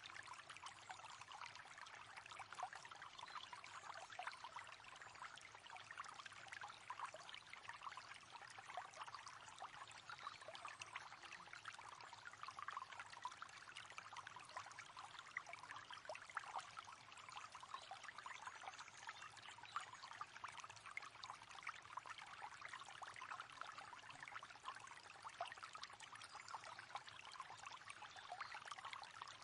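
River water flowing steadily, a faint, constant splashing babble of running water.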